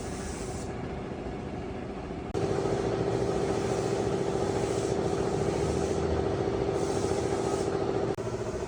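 Jeep engine running steadily with a strong hum. It jumps louder about two seconds in and drops suddenly near the end.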